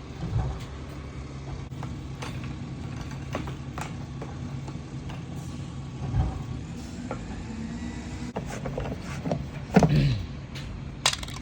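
Plastic parts of a hand-operated gas siphoning tool being handled and fitted, with scattered clicks and knocks and a louder knock about ten seconds in, over a steady low hum.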